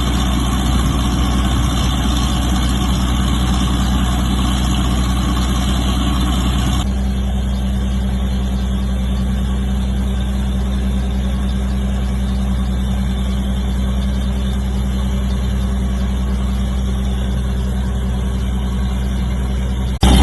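Rice mill machinery running with a continuous hum and a rushing noise. The higher rushing noise drops away abruptly about seven seconds in, leaving a steady, lower machine hum.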